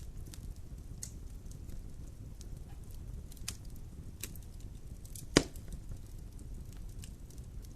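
Fire burning in a fireplace: a steady low rumble with scattered crackles, and one loud pop about five and a half seconds in.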